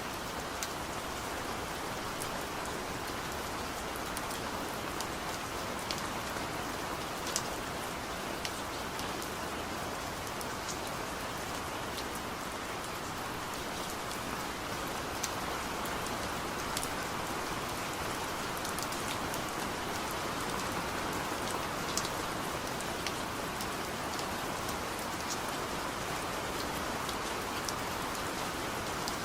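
Steady rain falling, an even hiss with scattered sharper drops striking close by.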